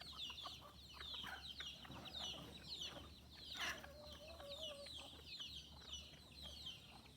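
Chickens with chicks: rapid, high, falling peeps run on throughout, and about three and a half seconds in one bird gives a louder call that drops and holds a lower note for about a second.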